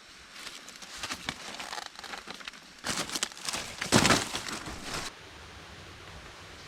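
Rustling and crinkling with many small clicks, busiest and loudest about four seconds in, stopping abruptly about five seconds in.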